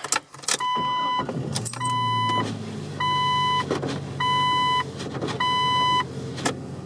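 A car's dashboard warning chime beeping five times, about once every 1.2 seconds, each beep a steady electronic tone, with the engine running low underneath.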